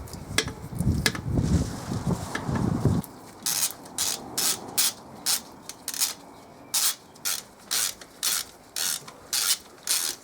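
A hand ratchet working a spark plug in short strokes, its pawl clicking in quick rasps about twice a second. Before that come a few seconds of fumbling and handling noise.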